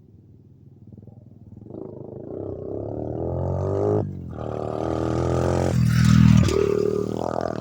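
Coolster 125 pit bike's single-cylinder four-stroke engine revving hard as the bike comes closer, its pitch climbing, with a brief drop about four seconds in at a gear change or throttle lift. It then runs louder again and is loudest a little past six seconds.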